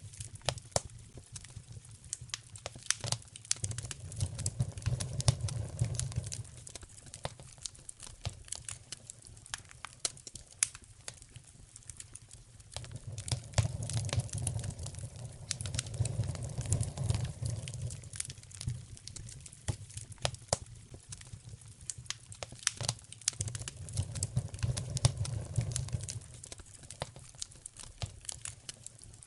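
Wood fire crackling and popping steadily in a fireplace, with sharp snaps scattered throughout. A low rumble swells and fades three times underneath.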